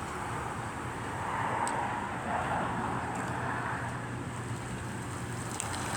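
Steady whooshing rumble of car wash machinery and vehicles, over a low steady hum, with a faint tick or two.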